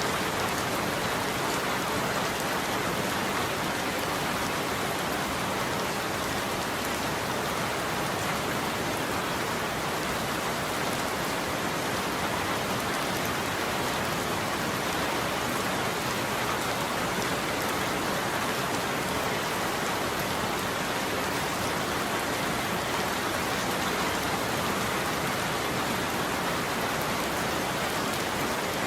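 Steady heavy rain falling on a surface, an even hiss of many drops with no change in strength and no thunder.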